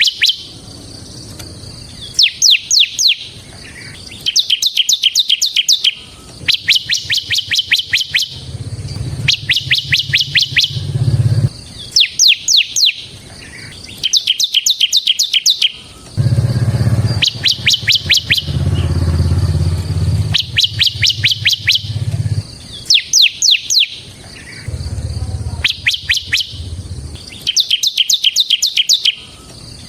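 Bar-winged prinia (ciblek) singing its rapid trilling song: short bursts of fast, high, repeated down-slurred notes, each burst about a second long, coming every couple of seconds. A low hum rises and fades underneath in places.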